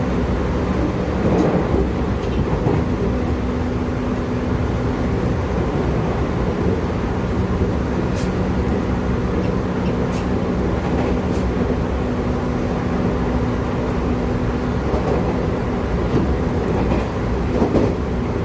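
Running sound of a JR Kyushu 811 series electric train's motor car, MoHa 811-1, at speed: a steady rumble of wheels on rail under a constant traction-motor hum, with a second lower tone joining in the middle and a few faint clicks.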